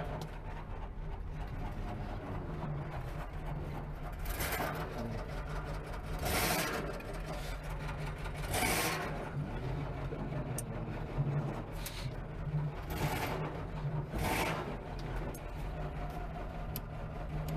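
Lincoln Continental V8 running low and steady, heard from inside the cabin as the car rolls slowly, just after a cold start following about two years of sitting. A few short whooshing noises come and go over the engine.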